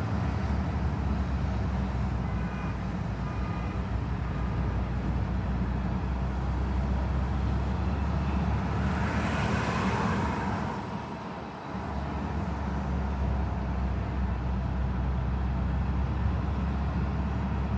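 Road traffic: a steady low rumble of car engines and tyres, with one vehicle swelling up and passing by about nine to ten seconds in.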